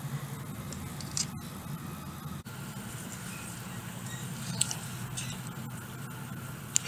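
Steady low rumble of a Shinkansen in motion, heard from inside the carriage, with a few sharp clicks along the way.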